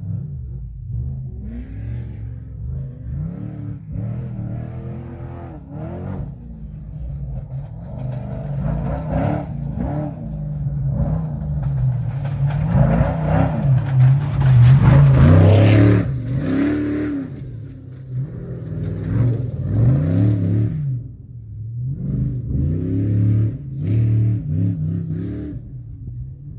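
Off-road race truck engine revving hard, its pitch rising and falling over and over as it goes through the gears. It is loudest about halfway through as it passes close, with a rush of tyre and gravel noise, then fades with more rev swings.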